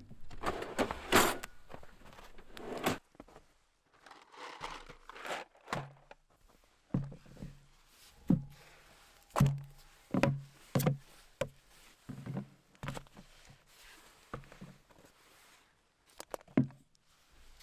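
A few loud rustling, hissing noises in the first three seconds, then a dozen or so irregular dull thumps and knocks.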